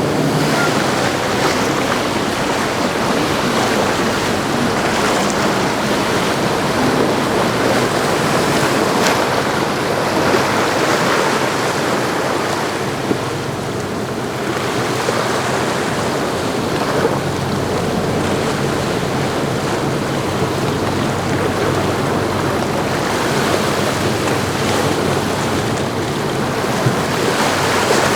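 Riva 76 Perseo motor yacht's engines running with a steady low drone, under a constant wash of wind on the microphone and waves breaking in the inlet.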